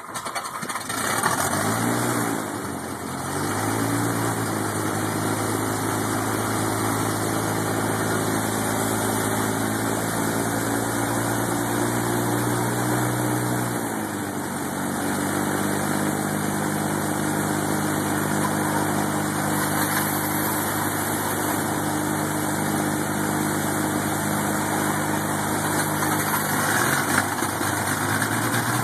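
Piper PA-31-350 Chieftain's turbocharged six-cylinder piston engine starting: it catches right away, runs unevenly for a few seconds, then settles into a steady idle. About halfway through the engine speed drops a little, and it wavers briefly near the end.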